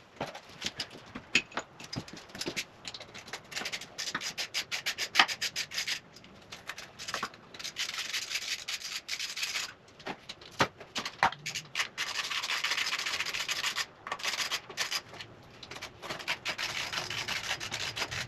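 Hand tools at work on a dirt bike's fittings: irregular quick clicks and knocks, with longer stretches of rasping scraping.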